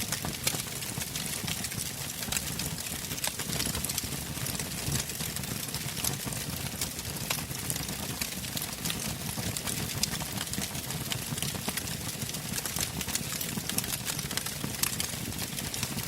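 Fire burning in a fireplace, crackling, with frequent sharp pops over a steady low rumble.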